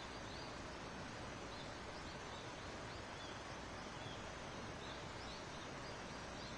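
Forest dawn ambience: a steady background hiss with many faint, short, high bird chirps scattered throughout.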